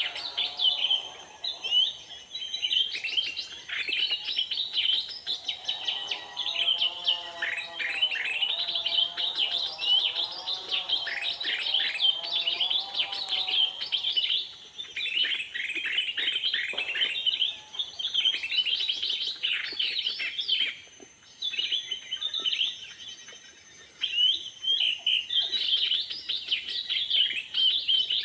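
Small birds chirping rapidly and almost without a break, with a lower, wavering call joining in near the start and again from about six to fourteen seconds in.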